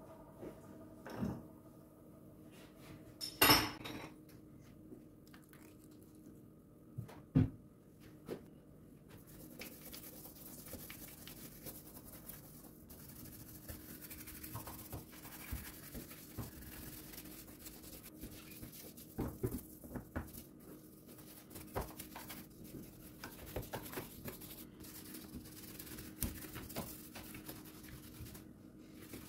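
Dishes and kitchen utensils knocking and clinking during kitchen cleaning, with a sharp clack about three and a half seconds in and another about seven seconds in. From about nine seconds, a steady hiss joins in under a run of small clicks.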